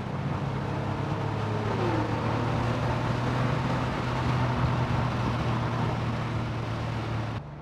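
Air-cooled flat-six engine of a Porsche 911 3.2 Carrera heard from inside the cabin while driving, a steady low drone with road noise. A brief falling tone sounds about two seconds in.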